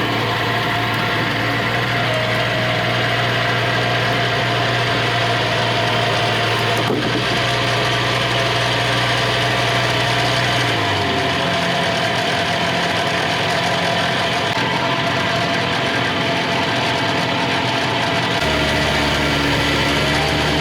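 An engine running steadily, changing to a different speed about eleven seconds in and again near the end.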